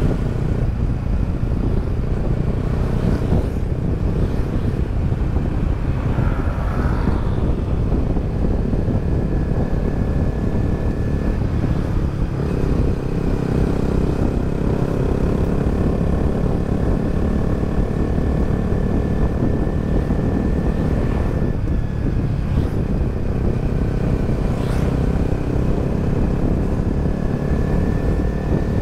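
Yamaha XSR 155's single-cylinder engine running steadily on the move, with road and wind noise under it. The engine note shifts slightly a couple of times as the rider varies the throttle.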